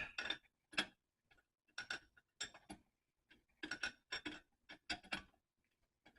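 Ratchet wrench clicking in short runs of two or three clicks, with pauses between, as the puller's screw is turned to press out a pilot bearing that is coming apart.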